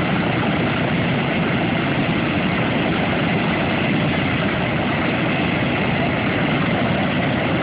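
Boeing B-17 Flying Fortress's four radial piston engines running steadily, a dense low drone with no rise or fall.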